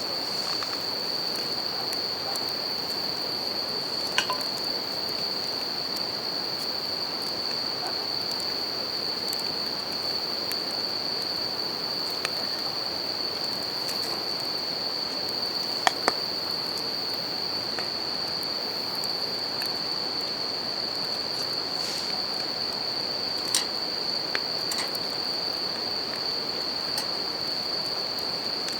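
Bell crickets (suzumushi) singing in a steady high-pitched chorus over the even rush of a river, with a wood campfire giving a few sharp crackles and pops.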